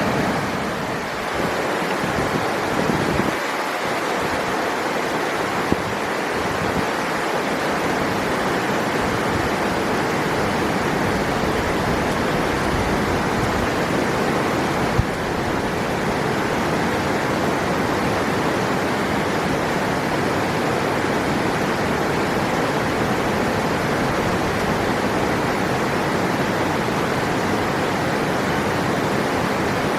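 River water rushing steadily, an even full hiss with no pauses; two faint clicks, one about six seconds in and one about halfway through.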